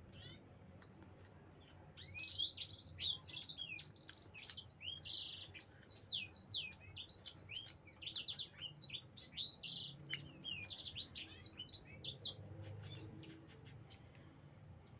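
Birds chirping in a rapid, busy chatter of short high chirps that starts about two seconds in and dies away near the end.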